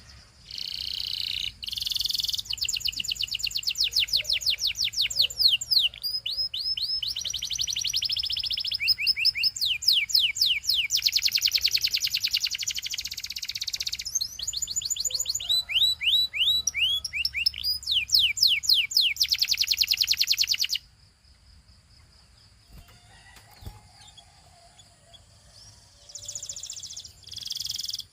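Canary singing a long song of fast trills and rolls of repeated high sweeping notes, changing phrase every second or two; it breaks off about three quarters of the way through and starts again near the end.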